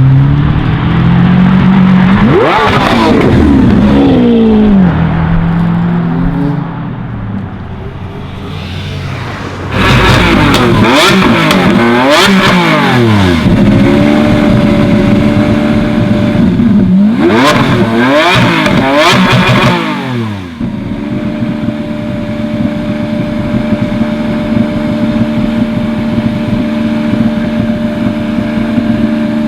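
Lamborghini Aventador SV's V12 engine revved in several bursts, its pitch climbing and dropping sharply again and again. It then settles into a steady run for the last several seconds.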